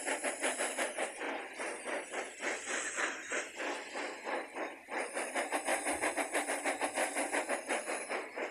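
Toy train running along its track with a rapid, even clatter, about six beats a second.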